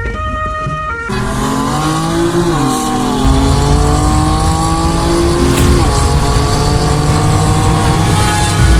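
A car engine revving, its pitch rising and falling repeatedly, starting with a cut about a second in. Before that, steady held tones.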